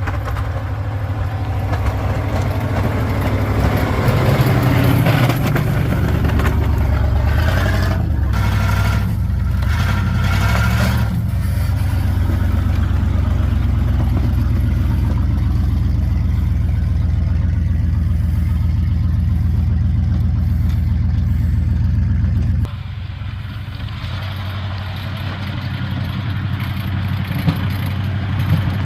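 Plow truck's engine running, the revs rising and wavering for several seconds before settling to a steady run; about three quarters of the way through the sound drops suddenly to a quieter level.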